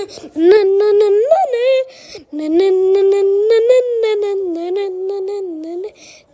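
A high, child-like voice singing or humming long held notes that slide up and down, in three phrases with short breaks, with sharp clicks in between.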